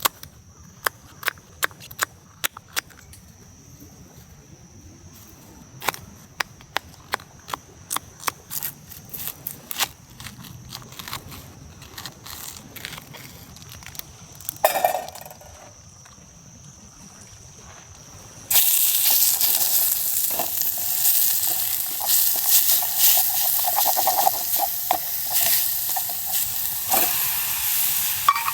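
A run of sharp clicks and knocks, then about two-thirds of the way through food goes into a hot pan and sizzles loudly and steadily.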